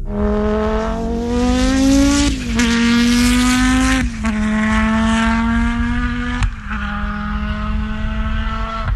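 Audi Sport Quattro S1 rally car's turbocharged five-cylinder engine under hard acceleration. Its pitch climbs and then falls back at three gear changes, about two and a half, four and six and a half seconds in.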